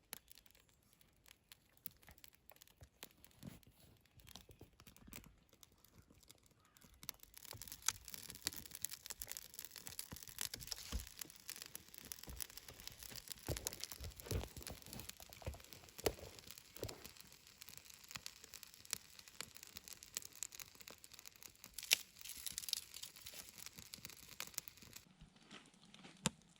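Food sizzling in a pan: a steady hiss full of small pops and crackles. It starts faintly, grows stronger about seven seconds in, and cuts off suddenly near the end.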